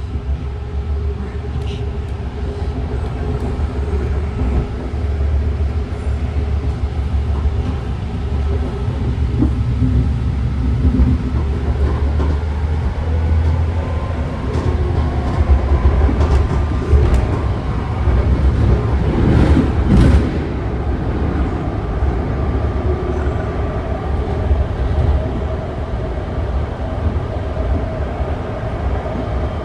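Running noise of a BART train heard from inside the car: a steady low rumble of wheels on rail, with a faint whine that slowly rises in pitch near the end and a brief hiss about twenty seconds in.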